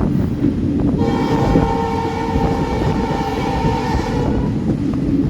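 Train running with a steady low rumble of wheels on track; about a second in, a train horn sounds a single long, steady chord-like blast for about three and a half seconds.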